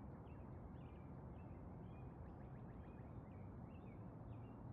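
Faint birds chirping, many short high calls in quick succession, over a low steady hum.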